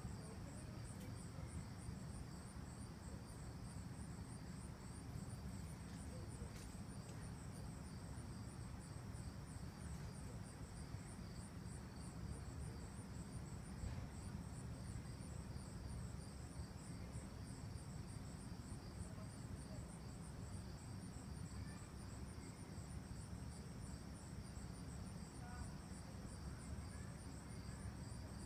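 Crickets chirping in a fast, even, high-pitched pulsing rhythm that goes on without a break, faint, over a steady low rumble.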